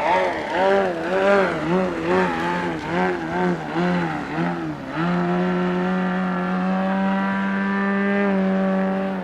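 Radio-controlled model airplane engine running, its pitch swinging up and down about twice a second, then held at a steady pitch from about halfway before dropping slightly near the end.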